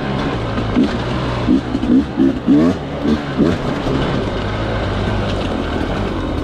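Sherco two-stroke dirt bike engine revving in short blips through the first few seconds, then running more steadily at a held pitch.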